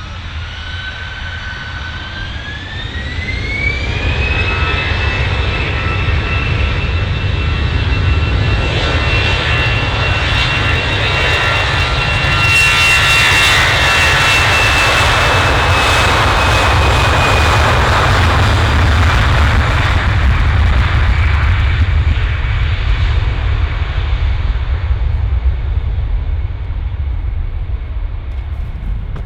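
Jet airliner's engines spooling up for takeoff: a whine rises in pitch over the first few seconds, then holds steady over a loud roar that peaks in the middle and eases off near the end as the aircraft rolls away.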